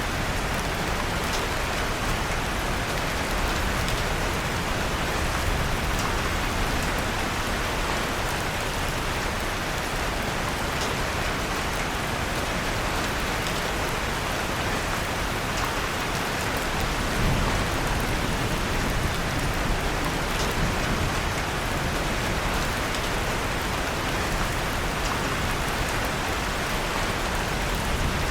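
Steady, even rain, with faint scattered crackles of a wood fire in a fireplace and a brief low thud about seventeen seconds in.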